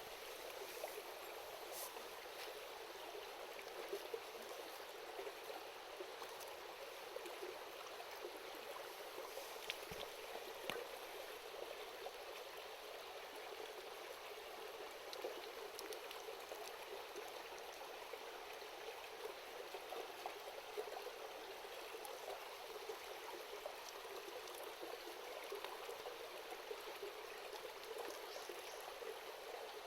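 Shallow river babbling steadily, with a few faint crackles from the wood fire.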